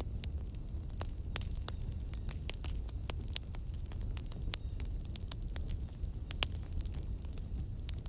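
Wood fire in a fireplace crackling, with many irregular sharp pops and snaps over a low steady rumble, and a faint steady high-pitched hiss beneath.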